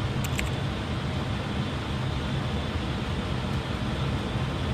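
Steady flight-deck noise of an airliner on final approach: airflow and engine hum at a constant level. A couple of faint, short clicks just after the start.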